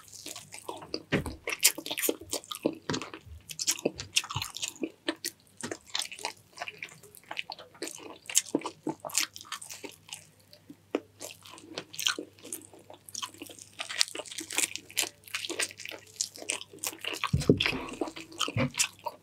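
A person eating close to the microphone: wet chewing with irregular crunchy bites and mouth clicks, from chicken stewed in coconut milk with rice and side dishes.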